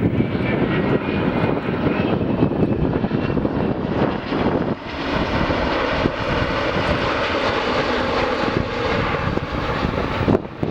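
Airbus A350-900's Rolls-Royce Trent XWB turbofan engines running loud and steady as the airliner comes in to land, with a brief dip in loudness about halfway through.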